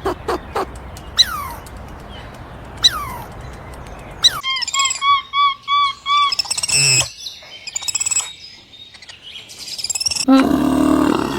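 Bird calls: two falling whistled calls, then a run of about five short, arched chirps with more chirping after. A louder, lower animal call comes near the end.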